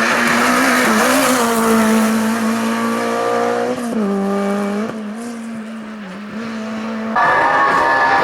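Race car engine running hard at high revs on a hill-climb run; the pitch drops sharply about four seconds in, then climbs again. The sound fades somewhat, then a louder, higher engine note comes in abruptly near the end.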